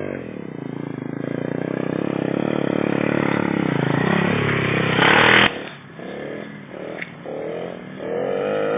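Small pit bike engine running and getting steadily louder as it comes closer, with a short loud rush of noise about five seconds in. After that it drops away, then rises again near the end.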